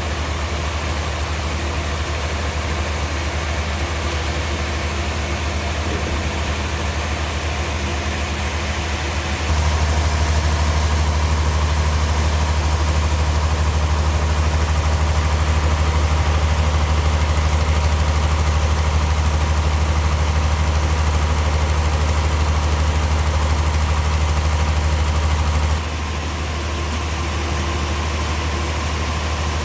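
Heavy machinery engine running steadily with a low hum. It gets louder about ten seconds in and drops back about four seconds before the end.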